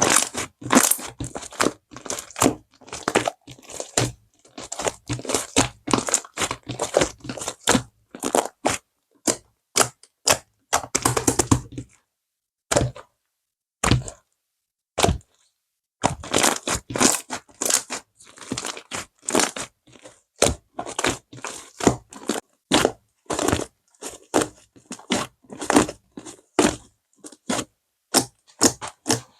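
Slime being squeezed, pressed and poked by hand, giving runs of quick crackling clicks and pops, with a few seconds of pauses about halfway through.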